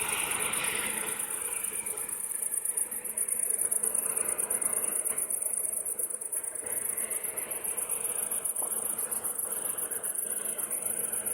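Insects chirring in a fast, even, high-pitched pulse over a soft background rush; a louder rushing noise fades out over the first two seconds.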